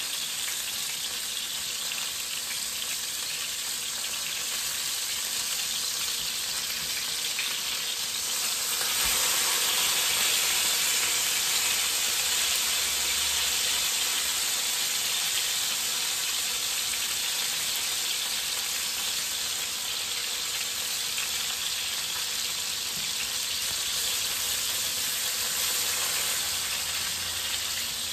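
Cod fillets sizzling in hot oil in a frying pan, a steady frying hiss that gets louder about nine seconds in.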